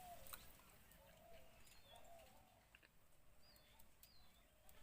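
Near silence with faint distant birds: a few short high chirps and a couple of low drawn-out calls.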